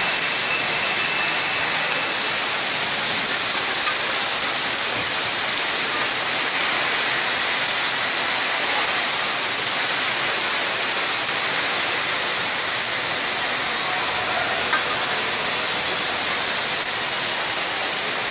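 Heavy rain falling steadily, a continuous loud hiss.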